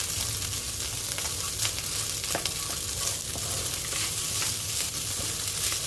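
Turmeric-seasoned rice frying with a steady sizzle in a pan as it is stirred, with a few light clicks of the utensil against the pan.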